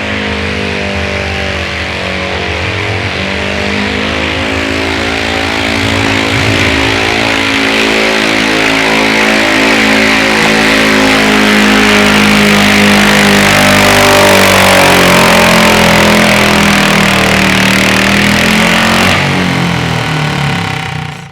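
Engines of a multi-engine pulling garden tractor running hard under load, their pitch wavering and the sound growing louder through the middle. The engine note drops off a couple of seconds before the end, then cuts off suddenly.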